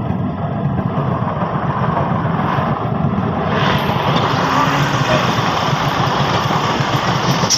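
Train passing close by at speed: a loud, steady rumble and clatter of wheels on the rails.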